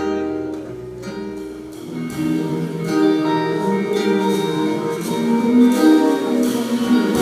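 Instrumental intro of a Brazilian song played live by a band: plucked guitar chords and notes, joined by fuller accompaniment about two seconds in.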